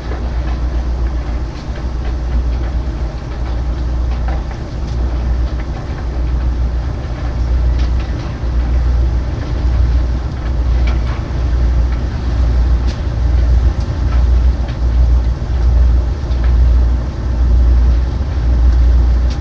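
Heavy ship's machinery running with a deep rumble that swells and fades about once a second, with a few light clanks over it.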